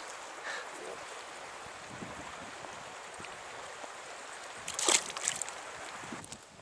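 Steady rush of flowing stream water that cuts off suddenly near the end. About five seconds in there is a short burst of sharp splashing or clattering noises.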